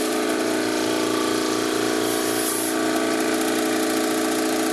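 Small electric air pump running with a steady mechanical drone, filling the air cannon's PVC air reservoir.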